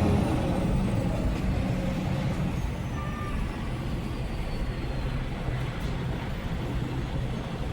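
Semi-truck's diesel engine running with a steady low rumble, heard from inside the cab.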